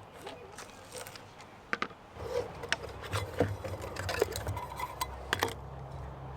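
Scattered light clinks and knocks of small objects being handled, with a low steady hum that starts about two seconds in.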